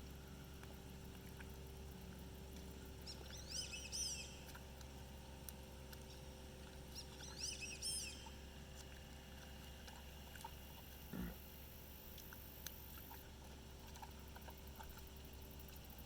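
Faint high chirping calls of a bird, in two short bouts about four seconds apart, over a steady low hum; a single soft thump follows near the end.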